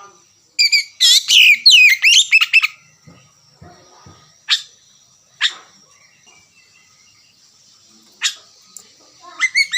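Oriental magpie-robin (kacer) singing: a loud, rapid burst of varied chattering notes about a second in, then single sharp calls spaced a second or more apart, and a short phrase near the end.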